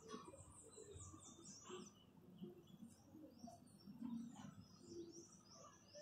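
Faint background birdsong: small birds chirping in quick runs of short, high notes, over a low ambient rumble.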